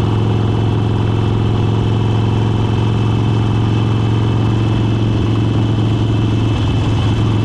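Motorcycle engine running at a steady cruise, a constant low drone that holds one pitch throughout, with wind and tyre noise over it.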